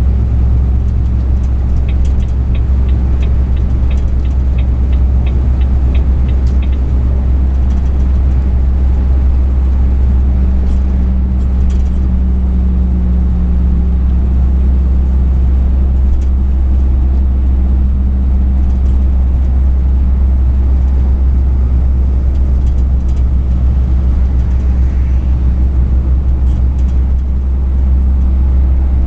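Truck engine and road noise droning steadily, heavy in the low end. For a few seconds near the start comes a run of evenly spaced ticks, about three a second.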